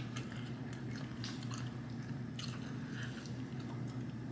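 Mouth sounds of a person chewing and biting into sauce-coated fried chicken: a few scattered wet smacks and clicks over a steady low hum.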